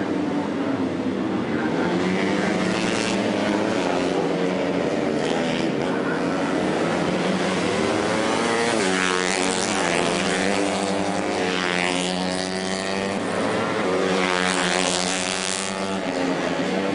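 Racing motorcycle engines revving hard and passing, their pitch climbing and dropping through the gears several times, most strongly around the middle and near the end.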